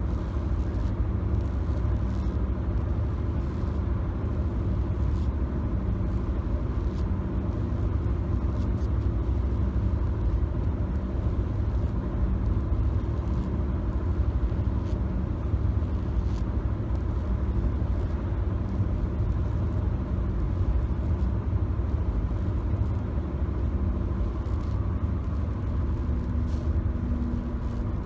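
Steady low road-and-engine rumble inside a moving car's cabin, with a few faint clicks.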